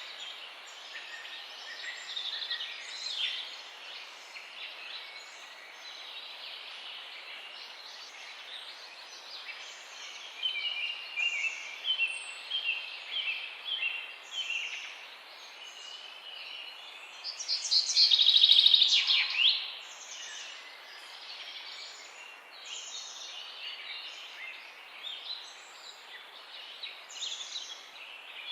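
Mixed songbirds singing and calling together over a steady background hiss: scattered chirps and short phrases, a run of quick repeated notes near the middle, and one loud, fast trilled song about two-thirds of the way through.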